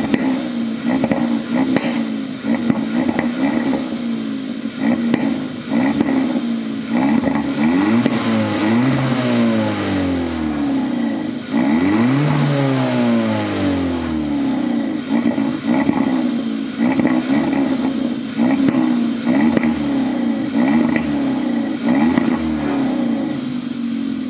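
Hyundai Elantra GT N Line's turbocharged 1.6-litre four-cylinder running on its stock exhaust, idling steadily. It is revved twice, about eight and twelve seconds in, the pitch rising and falling back each time.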